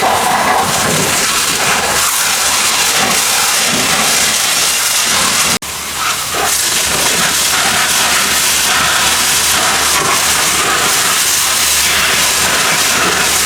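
Pressure washer spraying water in a steady, loud hiss, with a brief cut about five and a half seconds in.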